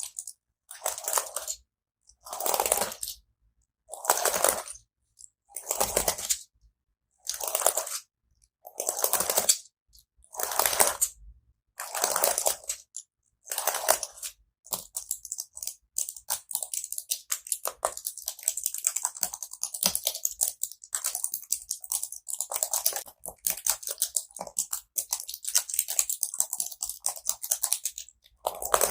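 ASMR sounds made on a keyboard: crisp scratchy strokes about every second and a half, then from about halfway a dense run of rapid small clicks and crackles.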